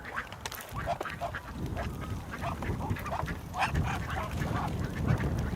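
Ducks quacking, many short calls in quick succession, over a low steady rumble.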